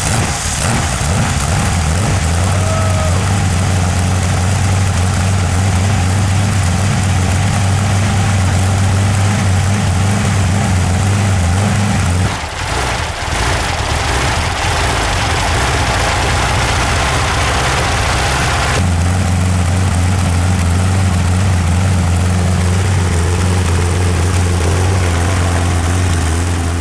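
Rover Meteor V12 tank engine, unsupercharged, running steadily with a deep, even low note. About twelve seconds in the note turns rougher for some six seconds, then settles back to the same steady run.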